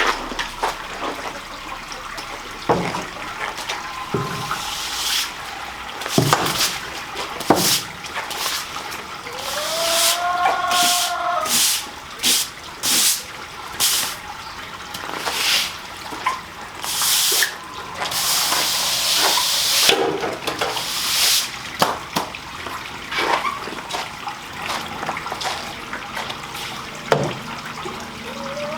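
Floodwater running and splashing on the barn floor, with many short, sharp splashes and a longer rush about two-thirds of the way through. A brief whine-like call comes about ten seconds in.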